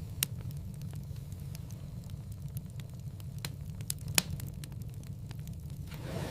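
Wood fire crackling in a fireplace: a steady low rumble of flames with scattered sharp pops, the loudest about four seconds in. A soft hiss swells near the end.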